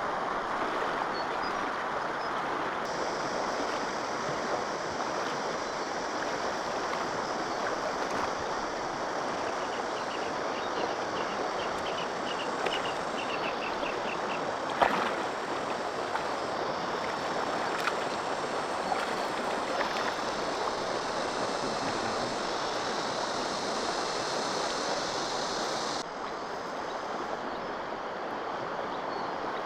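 Steady rush of flowing stream water. Partway through comes a short run of high chirps, and about halfway a single sharp knock stands out as the loudest sound.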